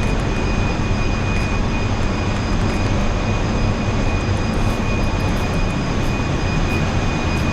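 Loud, steady machinery din of a very large crude carrier's engine room while the ship is underway, with a low hum and a thin, steady high-pitched whine; the inert gas fans are running close by.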